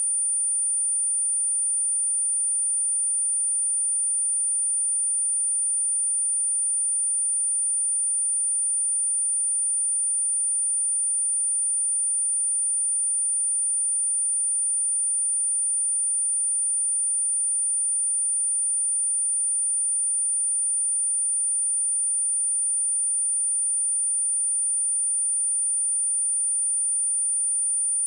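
A steady, high-pitched pure sine-wave test tone at 9273 Hz, held unchanged throughout, played to test a speaker or clear water and dust from it.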